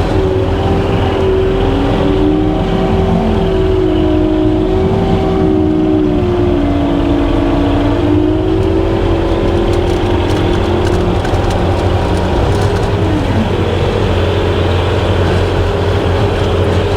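Skid steer's diesel engine running steadily under load with the hydraulic brush hog attachment working, a loud low hum with a droning tone that wavers and dips in pitch and fades out about three-quarters of the way through.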